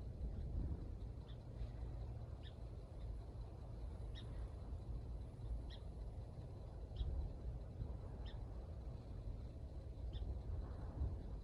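A small bird giving short, high call notes every second or so, over a low rumble of wind.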